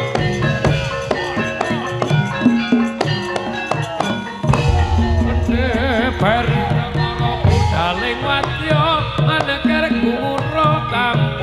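Javanese gamelan-style music: ringing metallophone notes and hand drumming under a wavering melody line. About four and a half seconds in, a deep heavy drum beat comes in and the music gets louder.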